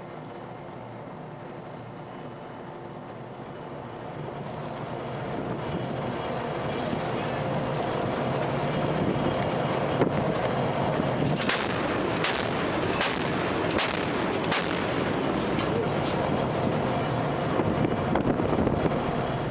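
OTO Melara 76 mm naval gun firing over a steady rushing background that swells after a few seconds. One sharp report comes about halfway, then a quick run of five cracks under a second apart.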